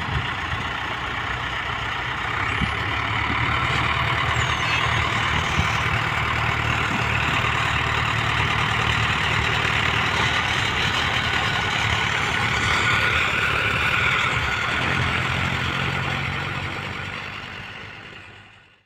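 Heavy diesel vehicle engine running steadily, fading out near the end.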